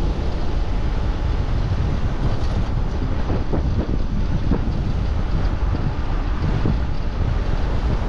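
Wind buffeting the microphone on a moving e-bike: a steady low rumble, with a few faint knocks in the middle.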